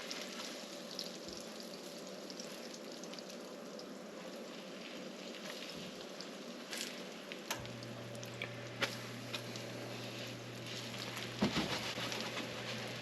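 Floured chicken cutlets frying in olive oil and butter in a pan: a steady sizzle with scattered pops and crackles, a few louder ones near the end. A low steady hum comes in about halfway.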